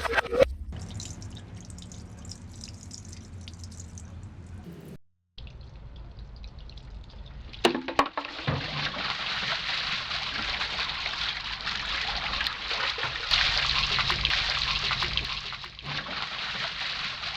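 Floodwater running and trickling, in a few short clips joined by abrupt cuts, with a low rumble underneath; the water grows louder from about eight seconds in.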